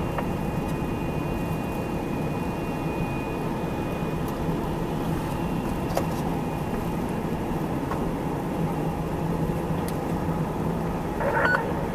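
Steady low rumble of a running vehicle engine with a constant hum, unchanging throughout.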